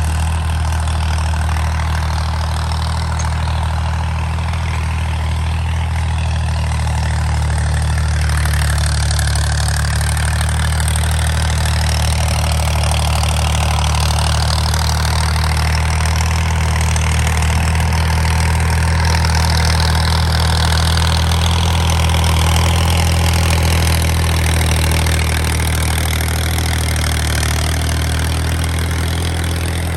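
Tractor diesel engine running steadily at a constant speed, a little louder in the middle.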